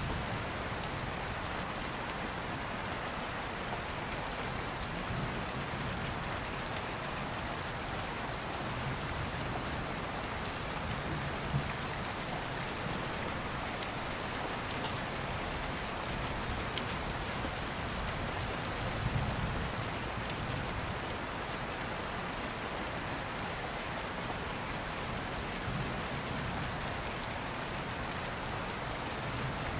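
Steady rain, an even hiss of falling drops, with scattered sharp ticks and a few brief, soft low rumbles.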